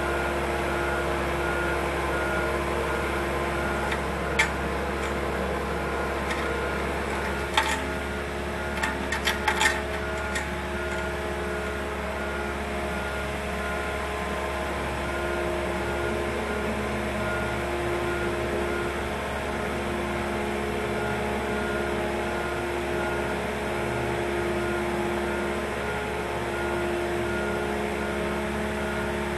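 Steady machinery hum with several held tones and a faint, evenly repeating high beep. A few sharp clicks about four seconds in and again between eight and ten seconds in.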